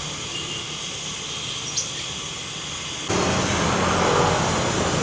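Oxy-LPG gas welding torch hissing steadily. About three seconds in the sound jumps abruptly louder, with a low steady hum added.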